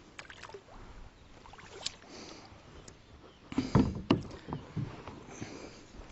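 Scattered knocks and bumps on a fishing kayak, with a louder cluster of heavy thumps about three and a half seconds in.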